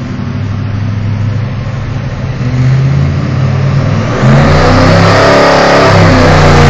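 Ford 351 Cleveland V8 on an engine dynamometer being run through a full-throttle power pull, getting louder as it climbs, with a sharp jump in loudness about four seconds in.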